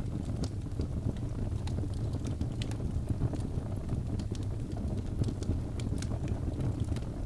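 Crackling fire: a steady low rumble of burning with irregular sharp pops and snaps.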